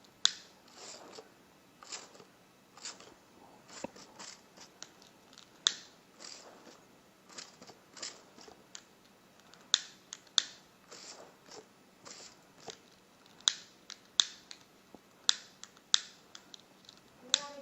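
Repeated short spritzes from a trigger spray bottle, spraying a copper salt solution into a flame for a green flame test. They come irregularly, two or so a second, each a sharp hiss.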